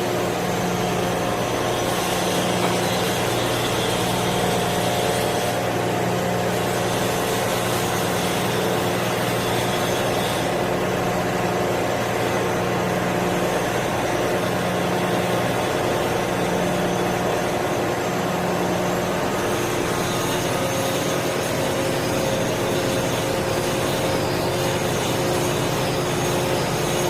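Heavy machinery running steadily: a continuous drone with several steady hum tones, one of which pulses on and off about once a second for the first two-thirds.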